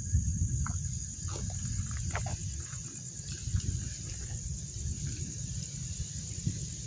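Crickets chirring steadily in a high-pitched, unbroken chorus, over a low rumbling noise and a few faint clicks.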